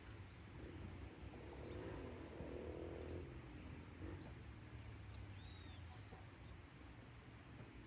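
Faint rural evening ambience: a steady high insect hiss and a low rumble that swells and fades in the first few seconds. A short sharp high bird note comes about four seconds in, and a smaller one a little later.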